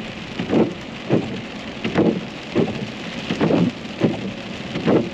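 Rain on a car windshield with the wipers sweeping back and forth, a regular swish about twice a second, heard from inside the car.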